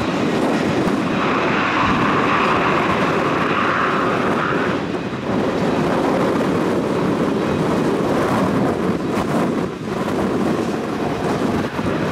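Single Pratt & Whitney PT6A turboprop engine and propeller of a TBM 700 running steadily, with wind buffeting the microphone. A higher-pitched band comes in about a second in and drops away about five seconds in.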